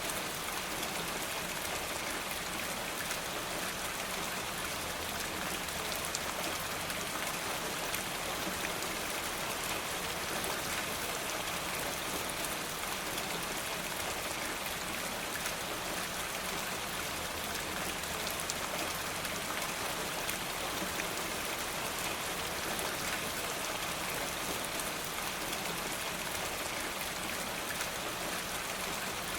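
Steady rain falling: an even hiss with many scattered drop ticks.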